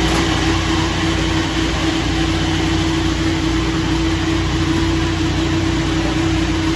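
An electric appliance motor runs at one steady pitch with a loud rushing noise, starting suddenly and cutting off after about seven seconds, over a steady low engine hum.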